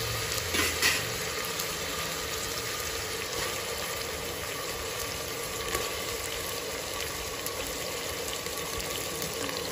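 Oil sizzling steadily in an aluminium pressure cooker as onions and ginger-garlic paste fry and bone-in mutton pieces are added, with a sharp knock about a second in.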